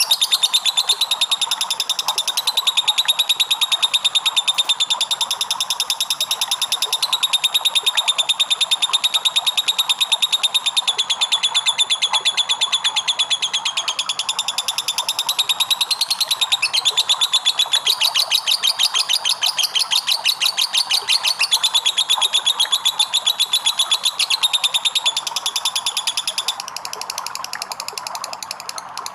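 Lovebird giving a long 'ngekek': a fast, shrill chattering trill of rapid clicks that runs on almost unbroken, easing off briefly a few times.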